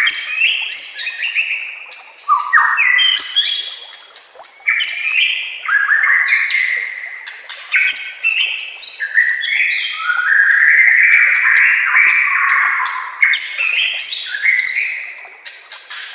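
White-rumped shama (murai batu) singing a varied string of loud whistled phrases and rapid trills with short pauses between them. Roughly two-thirds of the way through comes one longer, sweeping whistle.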